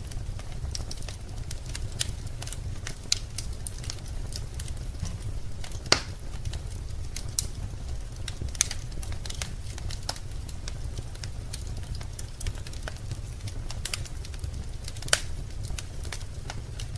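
Wood fire burning in a fireplace, crackling with irregular sharp pops over a steady low rumble; the loudest pops come about six seconds in and again near the end.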